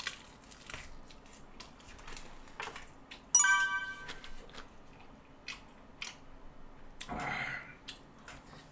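A person chewing food close to the microphone, with many small wet mouth clicks. About a third of the way in, a short, bright ringing tone cuts in briefly and is the loudest sound.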